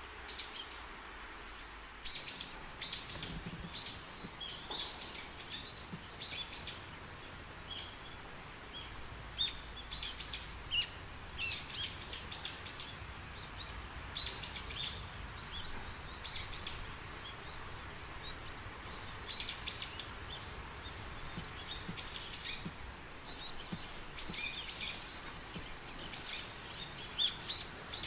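Birds chirping: many short, quick call notes coming in clusters, over a steady low background noise.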